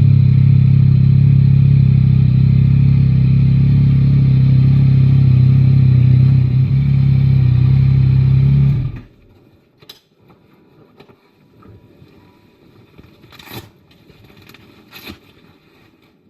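Yamaha Tracer 9 GT's three-cylinder engine running steadily at an even pitch, then switched off about nine seconds in, cutting out abruptly. A few faint clicks and rustles follow.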